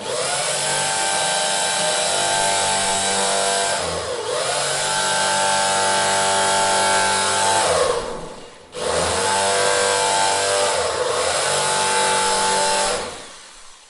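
A small electric motor whining as it spins up and runs at a steady speed. About four seconds in it dips and spins back up. It stops briefly near the middle, starts again, and winds down near the end.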